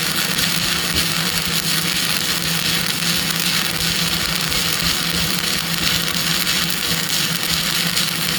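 Stick-welding arc hissing and crackling steadily as the electrode runs the first fill bead of a multi-pass horizontal weld, with a steady low hum underneath. The arc cuts off suddenly at the very end as the pass is finished.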